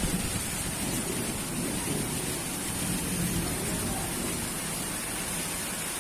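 Heavy monsoon rain falling steadily, an even hiss with no pauses.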